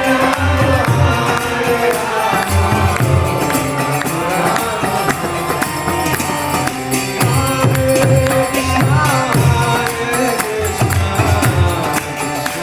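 Instrumental kirtan music between chanted verses: repeated groups of heavy drum strokes and a dense jingling, clattering percussion over a sustained melody line.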